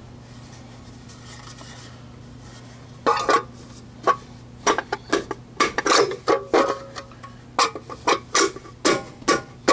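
Metallic rattling and clinking from a truck hubcap being handled, with a loose lug nut knocking about inside it: the cause of the truck's clicking noise. The clinks start about three seconds in and come in an irregular run of sharp knocks.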